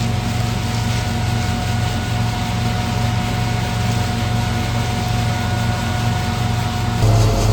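Hazelnut threshing machine (patoz) running steadily: a low engine drone with a whining tone on top. About seven seconds in, the sound shifts abruptly and gets louder and more throbbing.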